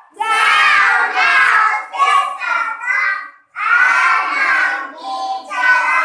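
Children singing an animal-sounds nursery song in phrases, with short breaks between the lines.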